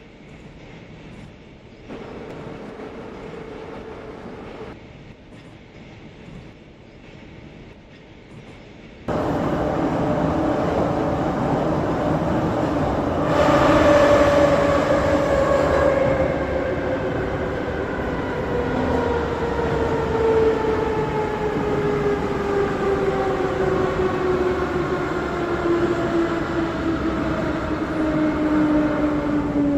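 Moscow Metro 81-717/714 'Nomernoy' subway train running, heard from on board, with a steady rumble that jumps abruptly louder about a third of the way in. After that, the whine of the traction motors and gears falls steadily in pitch as the train slows for the station.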